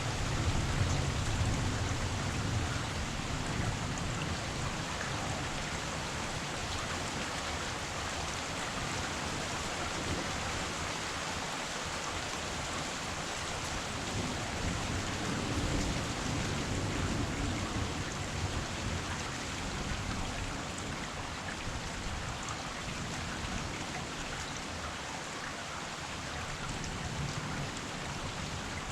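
Heavy rain falling fast, a dense steady hiss of drops on surfaces, with a low rumble swelling near the start and again about halfway through.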